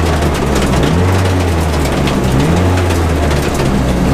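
Turbocharged Mercedes M111 2.3-litre four-cylinder engine of a drift car, heard from inside the cabin, running hard as a loud, steady drone. The drone dips briefly about a second in and again about two and a half seconds in.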